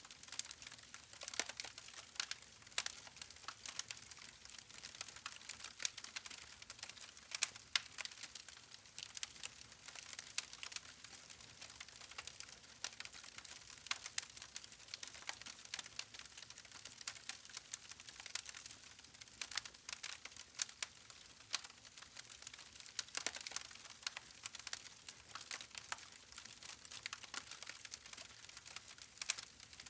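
Wood fire crackling: a steady stream of irregular small snaps and pops from burning logs.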